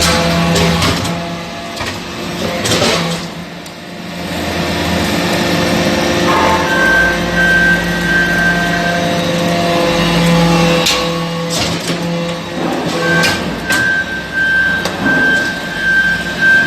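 Hydraulic metal-chip briquetting press running: a steady motor and pump hum whose tones shift every few seconds, with scattered sharp metallic knocks.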